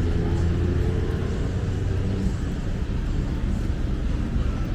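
Steady low engine rumble with a background of street noise.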